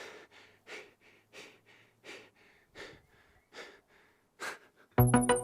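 A man's breathing recorded close up: quick, heavy, audible breaths in and out, roughly one to two a second. About five seconds in, a loud rhythmic electronic music track cuts in abruptly with a falling sweep.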